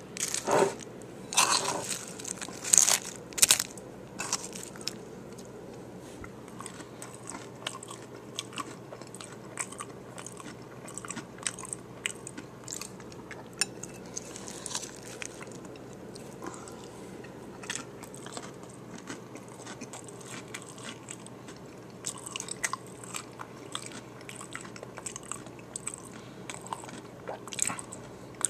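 Close-miked biting and chewing of a crunchy hard-shell taco bowl. A few loud, sharp crunches come in the first four seconds, then softer, dense crackly chewing goes on.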